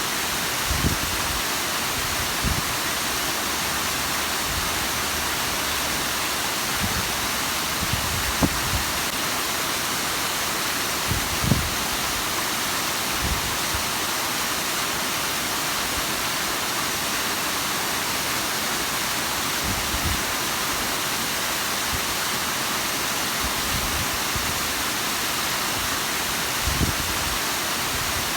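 Bigăr waterfall: water falling steadily, a constant even rush. A few brief low thumps break in now and then.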